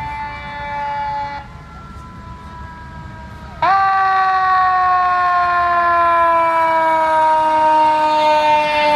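Fire truck air horn sounding two blasts: a chord-like blast that cuts off about a second and a half in, then a louder long blast starting near the middle, its pitch slowly sagging as it holds.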